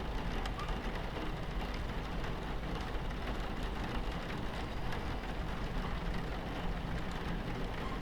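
Steady low rumble of a moving train, heard inside a carriage, with rain pattering against the window and faint scattered drop ticks.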